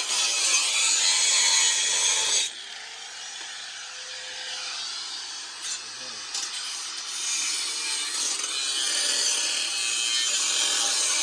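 Exhaust pipe being cut, a steady rasping noise that drops abruptly about two and a half seconds in and builds up again in the second half.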